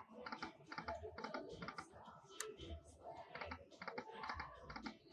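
Faint, quick runs of clicks and ticks from a Lightning Link slot machine as its reels spin and stop.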